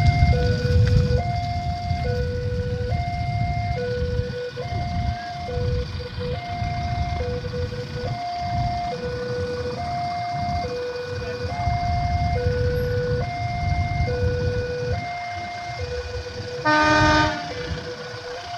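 Electronic warning alarm of a railway level crossing sounding its repeating two-tone signal, alternating high and low notes with about one cycle every second and a half, while the barrier is down. A low rumble of passing traffic runs underneath, heaviest at the start. About three seconds before the end, a loud horn sounds for about half a second.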